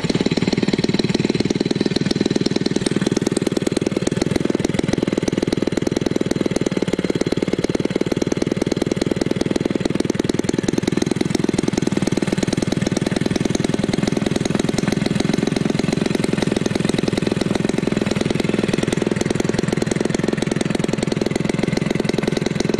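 Homelite 30cc two-stroke engine, converted for a giant-scale RC airplane, running steadily with a muffler and driving an 18x8 Master Airscrew propeller.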